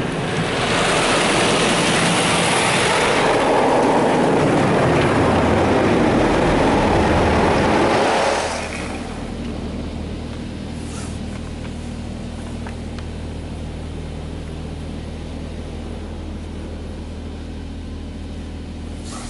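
Touchless car-wash spray hitting the truck, heard from inside the cab as a loud, even hiss that stops abruptly about eight and a half seconds in. After it cuts off, a steady low hum carries on.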